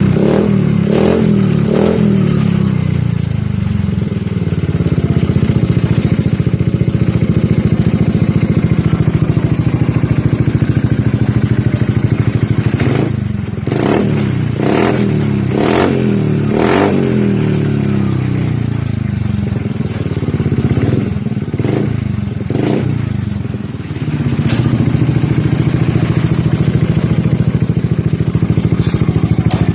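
Yamaha XMAX scooter's single-cylinder four-stroke engine idling through a full-stainless aftermarket slip-on silencer, blipped with short throttle revs twice near the start, a run of quick revs in the middle and a few more toward the end.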